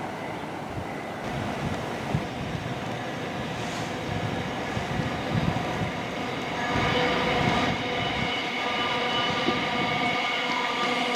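An electric passenger train running through on the rails below, with a steady rumble. About two-thirds of the way through, a whine of several steady tones joins in and the sound grows louder as the train comes closer.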